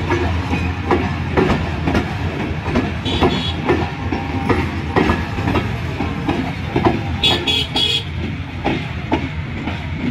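Passenger coaches of an intercity express train rolling past, the wheels clattering over the rail joints in a steady clickety-clack. Brief high squeals cut in about three seconds in and again near eight seconds.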